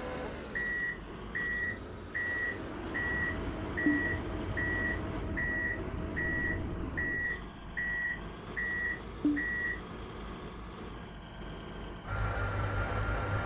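Heavy truck's reversing alarm beeping at a steady single pitch, twelve beeps about 0.8 s apart, over the truck's running diesel engine. The beeping stops, and near the end a louder engine sound with a steady whine takes over.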